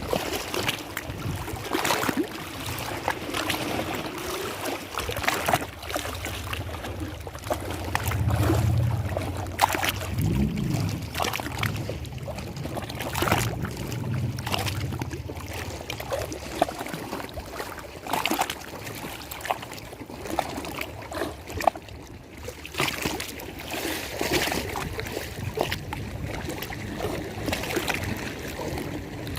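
Lake water lapping and splashing in irregular small slaps over a steady wash. A low hum swells and fades in the first half.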